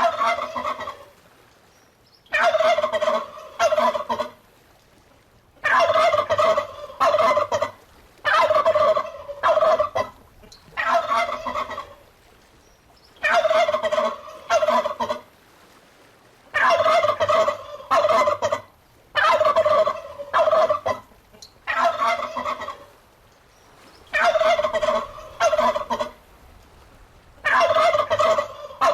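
Turkey gobbling: loud, rapid rattling gobbles, each lasting about a second or two, repeating every two to three seconds with short quiet gaps between them.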